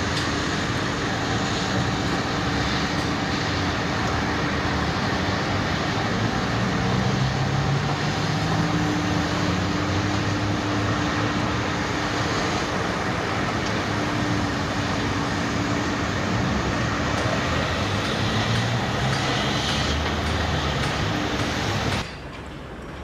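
Heavy machinery engine running steadily and loudly, its low drone rising and falling a little, cutting off suddenly near the end.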